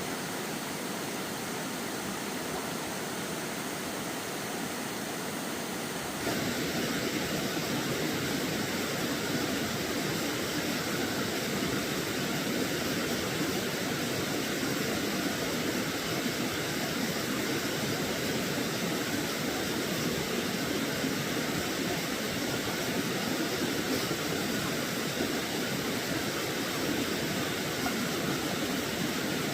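Steady rushing of stream water, which jumps louder about six seconds in.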